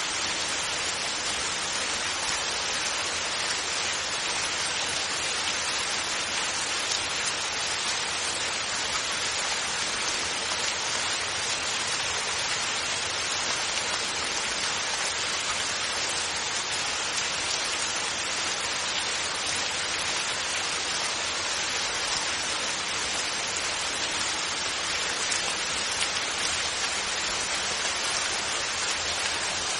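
Steady rain falling, a continuous even hiss of drops with no thunder.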